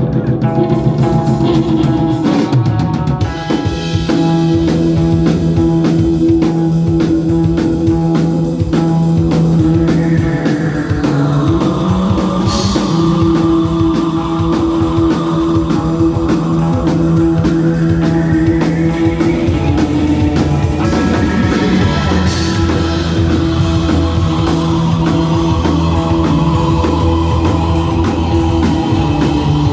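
Live rock band playing an instrumental passage: drum kit and guitars over sustained bass notes. A high tone sweeps down in pitch about a third of the way in, then climbs back up and falls again.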